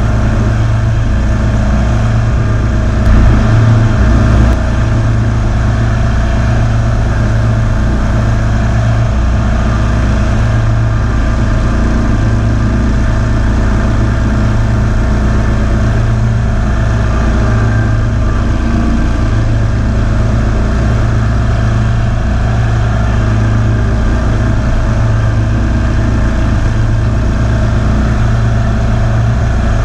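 Kawasaki V-twin engine of a Ferris zero-turn mower running steadily as the mower is driven, briefly louder about three to four seconds in.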